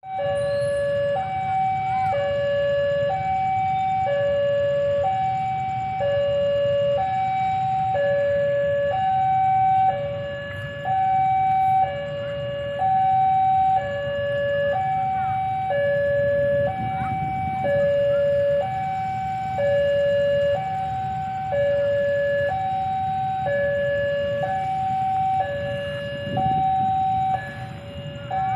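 Railway level-crossing warning alarm sounding its two-tone signal, a high note and a low note alternating about once a second, the warning that a train is approaching. A steady low rumble runs underneath.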